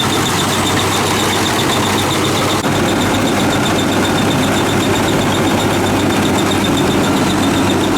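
WD 102 rice combine harvester's engine and machinery running steadily, with a high, rapid chirping pulse repeating several times a second over the drone.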